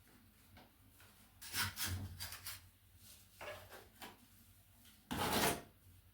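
Ceramic tiles being handled and set on a wall with tile spacers: a series of short scrapes and rubs, the loudest a half-second scrape about five seconds in.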